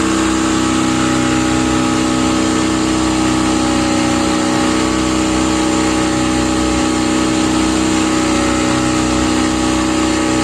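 Speedboat engine running at a steady, unchanging speed, with an even pitch and level.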